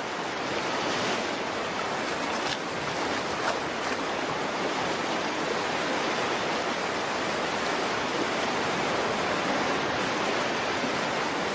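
Rushing stream water: a steady, even rush with a few faint splashes in the first few seconds.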